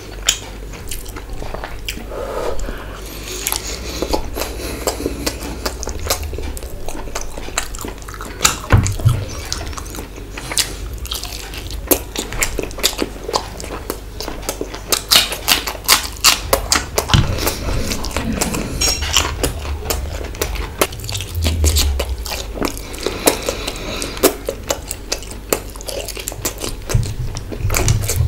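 Close-up chewing and wet mouth sounds of a man eating mutton curry and rice by hand, with many sharp lip-smacking clicks and the squish of rice being mixed with curry.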